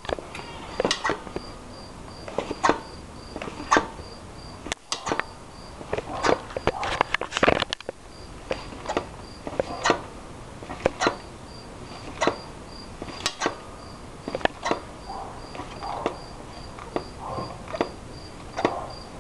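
Fox DHX 3.0 mountain-bike rear shock being compressed and let back out, giving a series of irregular sharp clacks and knocks as it rebounds to full extension. This is an odd top-out clack that sounds like the extension stop, and its cause is unknown to the owner. A faint high chirp repeats a couple of times a second behind it.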